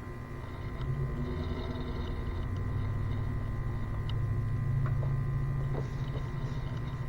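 Smoke machine's air pump running with a low, steady hum that comes in about a second in and swells toward the middle, over a constant high electrical whine, pushing smoke into the Jeep's EVAP system to find a vacuum leak.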